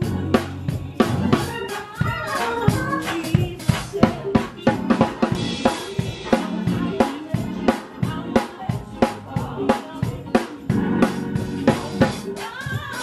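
Live instrumental band music: a drum kit playing busy, fast patterns of snare, rimshot and bass-drum hits over bass guitar and sustained pitched chords.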